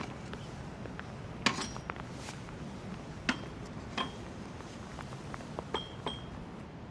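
Hard objects being handled: about six sharp clinks and knocks at irregular intervals, several with a brief ringing tone, over a steady low hiss.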